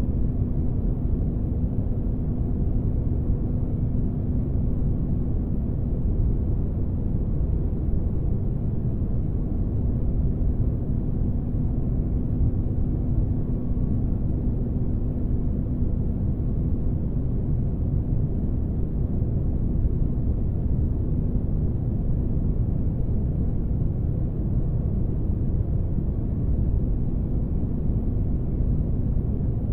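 Steady low rumbling drone of synthetic spaceship-interior ambience used as sleep noise, with a faint steady hum that fades out about two-thirds of the way through.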